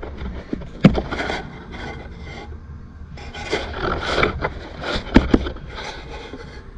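Scraping and rubbing of metal transmission parts being handled, with two sharp clicks, one about a second in and one about five seconds in.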